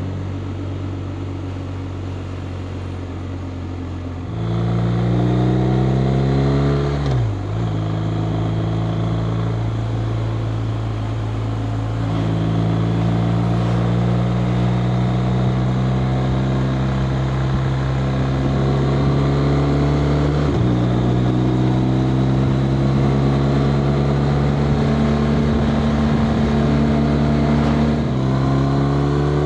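BMW R 1250 RT's boxer twin engine running steadily, then about four seconds in the throttle opens and it accelerates, the engine note rising in each gear and dropping at three upshifts, near 7, 20 and 28 seconds in.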